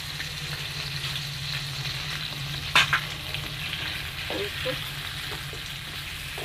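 Chicken pieces and ginger-garlic paste sizzling in hot oil in a kadai as they are stirred and fried, with a sharp knock, then a second, just under three seconds in.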